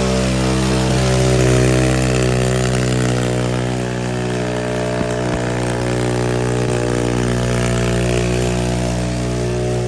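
Pit bike engine running at a steady speed.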